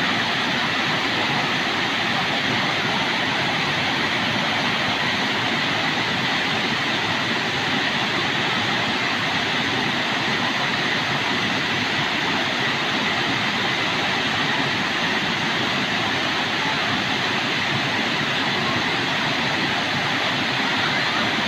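Waterfall: water pouring and rushing in a steady, unbroken wash of noise.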